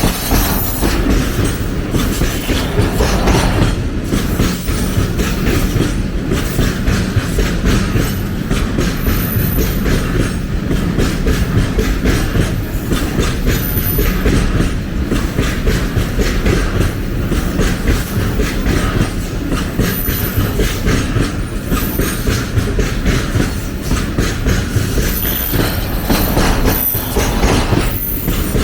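A train's wagons rolling past on the track, their wheels clattering over the rail joints in a continuous run of knocks.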